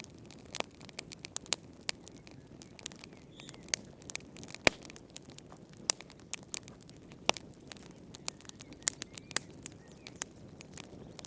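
Wood fire in a fireplace crackling: irregular sharp pops and snaps, one louder about halfway through, over a faint steady low hiss.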